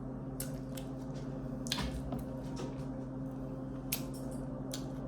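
Close-miked eating of shellfish: wet squishing and chewing with scattered small sharp clicks, as shell-on shrimp and mussels are handled and eaten. A steady low hum runs underneath.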